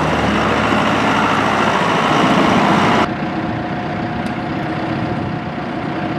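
John Deere 5090E tractor's four-cylinder turbo diesel engine running, growing louder over the first three seconds. About three seconds in it changes abruptly to a quieter, steady run with a faint steady whine.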